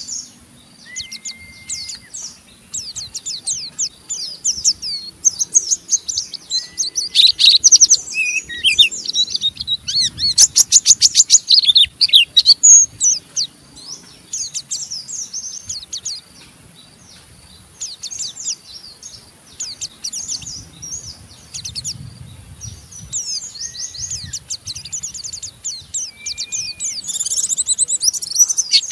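White-eye (pleci) singing its fast, rough chattering 'ngeriwik' song of rapid high chirps and trills. The bursts come thick from about a quarter to nearly halfway through, thin out, then build again near the end. A few short, lower level whistles are heard between them.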